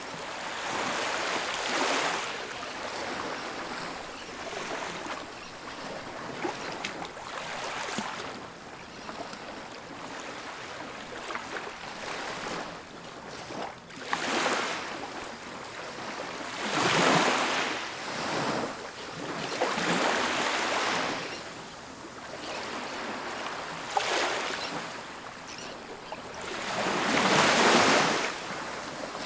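Ocean waves breaking on a beach, with surges of surf every few seconds, the biggest about halfway and near the end, over a steady wash.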